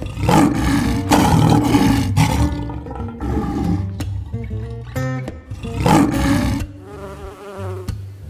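A large animal roaring twice, a long rough roar at the start and a shorter one about six seconds in, over guitar background music.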